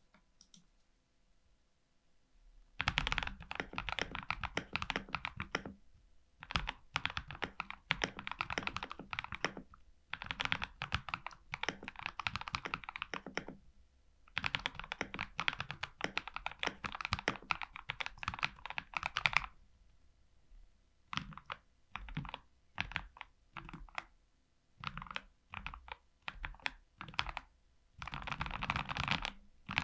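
Typing on a custom mechanical keyboard built on a GK61 base with lubed Gazzew Boba LT linear switches. The typing starts about three seconds in as fast runs of keystrokes broken by short pauses, thins to separate, spaced key presses past the middle, and turns fast again near the end.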